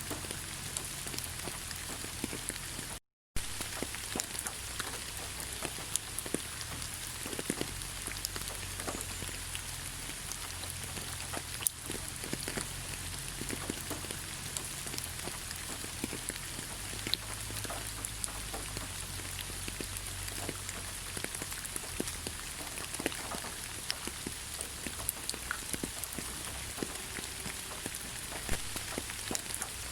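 Steady rain falling in a forest, a continuous hiss dotted with many individual drops ticking close by. The sound cuts out completely for a split second about three seconds in.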